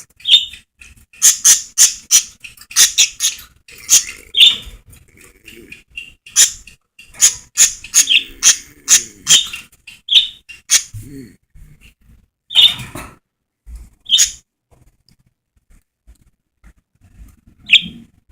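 Pet birds squawking: runs of short, shrill calls, several a second, over the first ten seconds or so. Then a few single calls, and one last call near the end.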